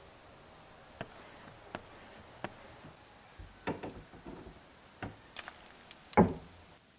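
Irregular knocks and taps on wood, about ten short separate strikes, with the loudest and heaviest knock about six seconds in.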